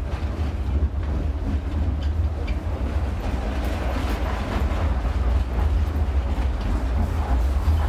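A tram running on its rails: a steady low rumble with wheel and rail noise and a few faint clicks.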